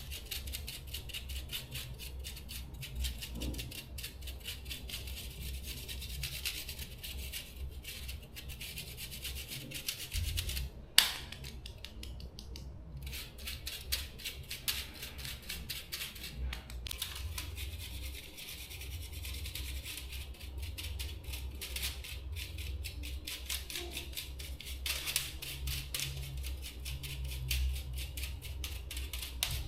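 Fast, steady scrubbing strokes on a hard part, with a single sharp click about eleven seconds in.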